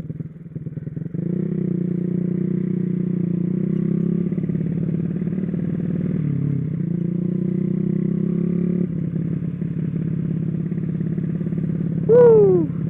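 Motorcycle engine running steadily under way, its pitch dipping briefly about six seconds in and easing off a little near nine seconds. Just before the end comes a short, loud sound falling sharply in pitch.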